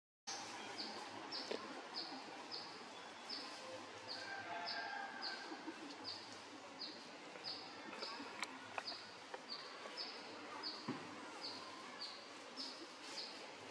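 A bird's short, high chirp repeated steadily, about twice a second, over a quiet background hiss.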